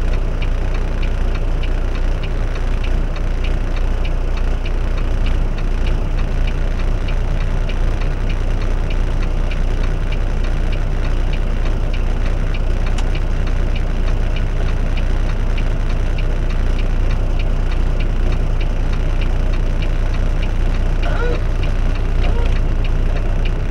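Inside a truck cab: steady engine and road drone with a fast, regular clicking over it.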